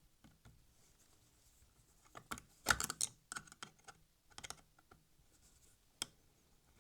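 Small clicks and light scrapes of hands handling and fitting parts of an OO-gauge model locomotive on the workbench, busiest from about two to three and a half seconds in, with one sharp click about six seconds in.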